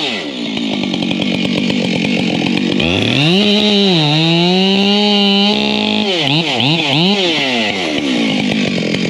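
Husqvarna two-stroke chainsaw cutting firewood. The throttle drops to idle at the start, then the saw revs back up about three seconds in and runs at high speed. After a few quick revs up and down it falls back to idle near the end.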